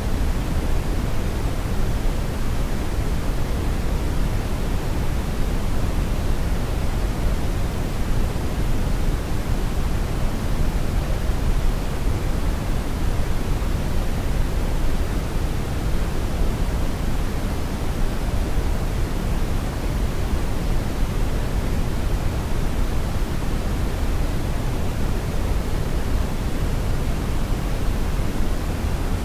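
Synthetic brown noise: a steady, deep rumbling hiss with most of its energy in the low end, unchanging throughout.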